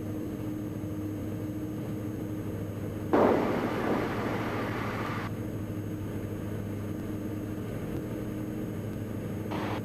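Cabin drone of a Diamond DA42 NG's twin Austro diesel engines and propellers, heard through the headset intercom: a steady low hum. About three seconds in, a sudden hiss rises over it and fades away over about two seconds.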